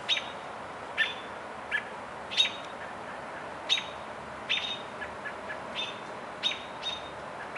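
A small bird chirping: short sharp chirps, each ending in a thin high note, repeated roughly once a second.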